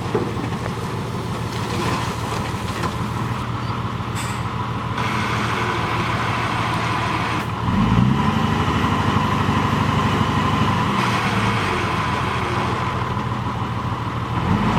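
Heavy diesel engine of earthmoving machinery running steadily with a steady whine, revving up about eight seconds in, easing back about three seconds later, then revving again at the end.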